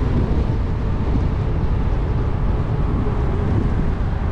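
Steady wind buffeting the microphone of a moving e-bike rider, a loud, even rumble heaviest in the lows.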